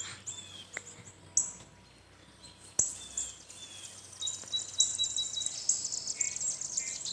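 Small songbirds chirping outdoors: scattered high chirps at first, then a dense run of rapid high chirps through the second half, with a short string of evenly spaced piping notes about four seconds in. A single sharp click sounds about three seconds in.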